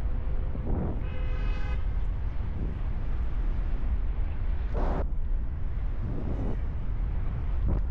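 Wind buffeting the microphone in flight, a steady low rumble with a few short gusty swells. A brief buzzy tone sounds about a second in.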